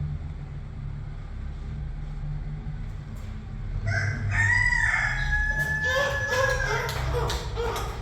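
Rooster crowing about four seconds in: one long held call, then shorter calls, over a steady low rumble.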